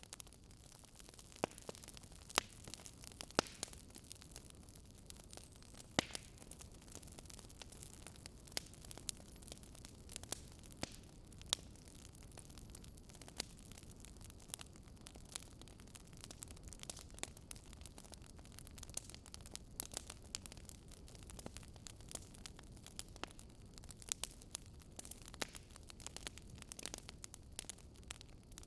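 Faint fireplace crackle: irregular sharp pops and snaps from burning wood over a low steady rumble and hiss.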